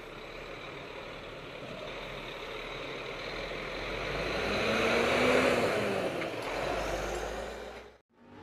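Heavy truck driving by, its engine and tyre noise swelling to a peak about five seconds in and then easing, before cutting off abruptly near the end.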